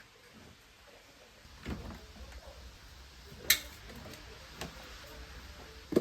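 A few light household knocks in a quiet room, with one sharp, loud click about three and a half seconds in.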